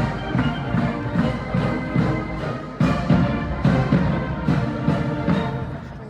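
Massed military band playing: brass and wind instruments holding sustained chords over a steady drum beat, easing off slightly near the end.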